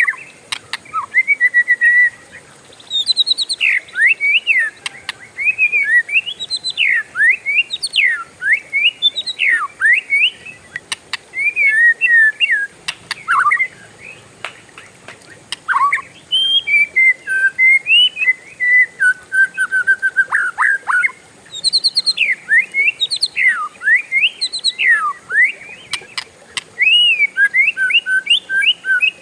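Oriental magpie-robin (kacer) singing a long, varied song of quick rising and falling whistled notes strung together almost without a break, the continuous "ngerol" song used to prompt other kept birds into singing.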